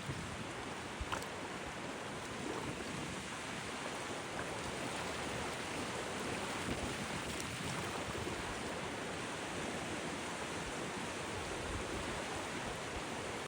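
Strong wind blowing over the microphone together with sea surf, a steady even rush.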